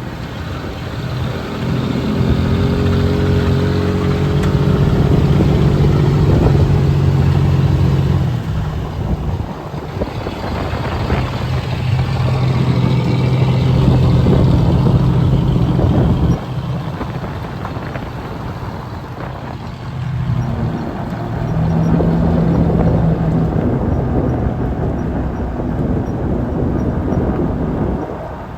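Car engine running under load, its note building up and easing back in three long stretches.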